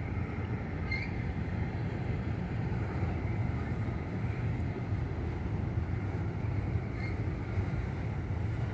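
CN intermodal freight train rolling slowly past: a steady low rumble. Two brief high chirps come about a second in and again near seven seconds.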